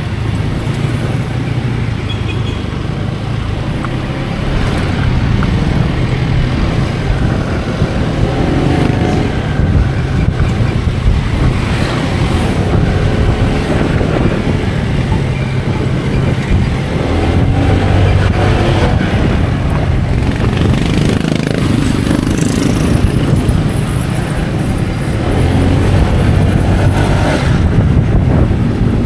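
Motor vehicle running on the road, recorded while riding, with steady engine hum, road noise and some wind on the microphone. The engine pitch shifts up and down as the speed changes.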